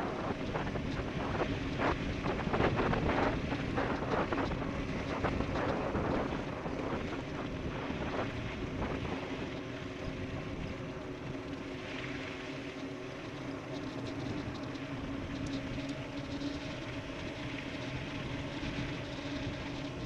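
E-bike riding fast downhill on a rough dirt road: wind buffeting the microphone, and tyres and frame rattling over bumps. There is a steady hum underneath, and the rattling eases about halfway through.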